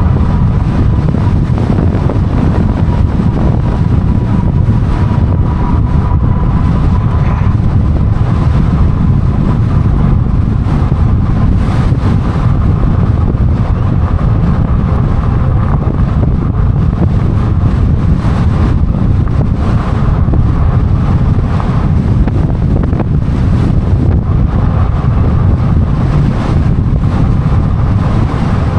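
Wind buffeting the microphone on a moving e-bike, a steady heavy rumble of air noise. A faint high whine runs under it for the first several seconds.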